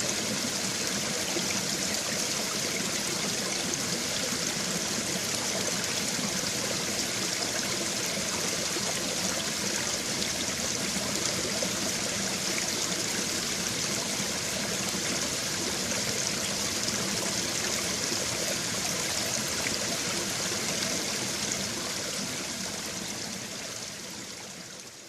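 Babbling brook: a small stream's water running and trickling in a steady rush, fading out near the end.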